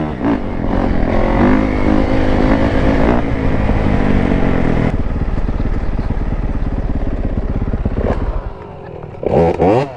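Single-cylinder dirt bike engine running under way on a trail, its revs rising and falling. It eases off about eight and a half seconds in, then picks up again in a short rev near the end.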